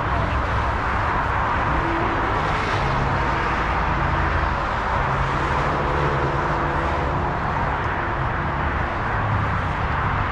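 A vehicle engine running steadily, a low rumble under an even wash of outdoor noise.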